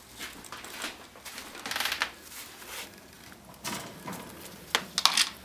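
Pet rats moving about in their wire cage: light rustling and scratching in short, scattered bursts.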